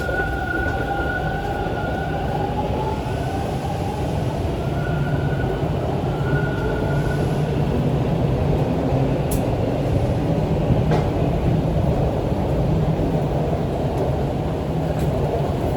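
Subway train running, heard from inside the car: a steady rumble of wheels on the track, with a high whine over it in the first few seconds that fades out, and a few sharp clicks later.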